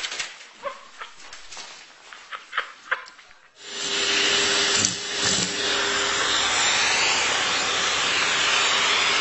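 Faint clicks and handling noise, then about a third of the way in a loud, steady rushing noise of a motor-driven appliance switches on suddenly and keeps running, with a steady hum under it.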